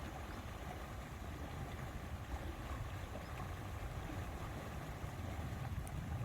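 Lakeside ambience: wind buffeting the microphone in a steady, fluttering low rumble over a soft, even wash of water and air.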